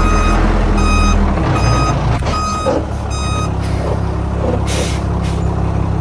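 Reversing alarm of heavy construction machinery beeping about every 0.8 seconds over a running diesel engine; the beeping stops about three and a half seconds in while the engine keeps running. A short hiss comes near the end.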